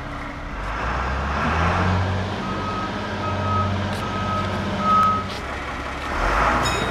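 A heavy vehicle's engine running, picking up about half a second in, with a warning beeper giving four short beeps about a second apart.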